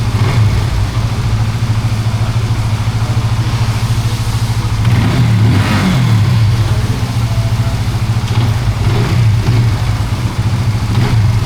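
Benelli 150S motorcycle's 150cc liquid-cooled engine idling steadily, with the throttle blipped a few times around the middle.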